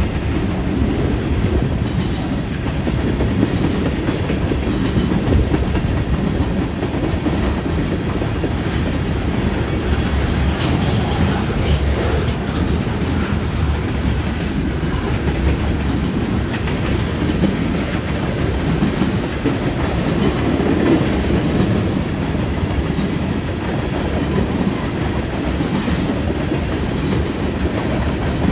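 Freight train cars rolling past with a steady rumble and wheels clacking over the rails. About ten seconds in there is a brief high-pitched wheel screech.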